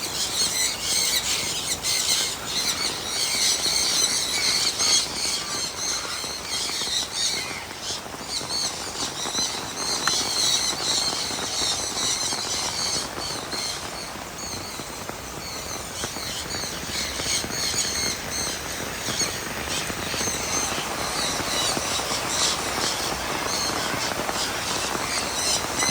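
Hard rain falling steadily, with aviary birds giving many short, high calls over it, busiest in the first several seconds and again in the second half.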